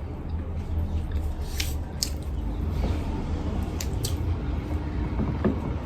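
Close-up mouth sounds of someone eating chicken curry and rice: wet chewing with a few sharp clicks and smacks, over a steady low hum.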